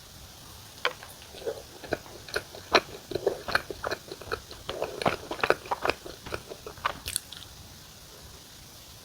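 Close-miked biting and chewing of a thick mammoth bread filled with butter cream: a quick run of sticky clicks and crunchy mouth sounds that tapers off about seven seconds in.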